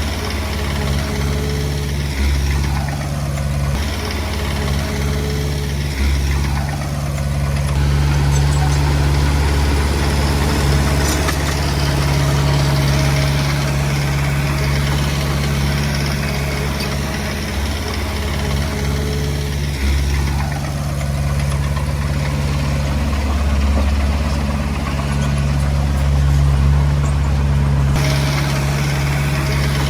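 Diesel engine of a Komatsu D20P bulldozer running steadily at work, with a few falling sweeps in its sound now and then.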